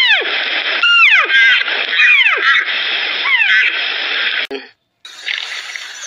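Red deer hinds calling: a series of short calls, each sliding steeply down in pitch, about one a second over a steady background hiss. The calls stop about four and a half seconds in, followed by a brief silence and then a fainter hiss.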